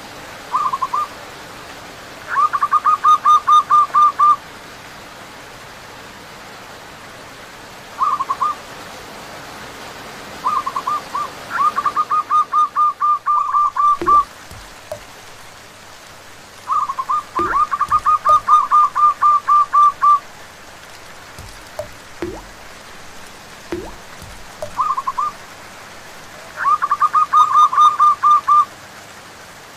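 Zebra doves (perkutut) cooing over steady rain: each phrase is a few short notes running into a fast string of cooing notes, coming about every four to eight seconds. A few soft low knocks sound in the middle.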